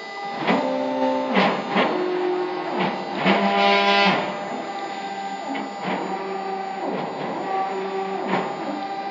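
Stepper motors of a CNC wood router driving its axes on a test run: a whine of several tones that jumps to a new pitch every second or so, with a quick sweep down and back up as each move stops and starts.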